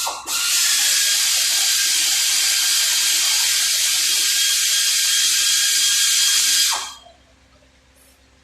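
Compressed-air tool in a body shop running in one steady burst of about six and a half seconds: a loud hiss with a faint whine, starting and stopping abruptly.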